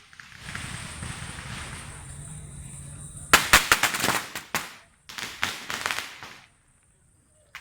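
A string of firecrackers going off: a steady hiss for about three seconds, then a rapid run of loud bangs, a short break, and a second run of bangs.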